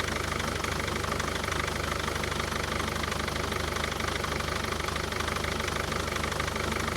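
Mercedes Vito 638 2.2 CDI four-cylinder diesel engine idling with a steady, even run. It sounds steady while the whole engine shakes hard on its mounts, a fault in the dual-mass flywheel damper.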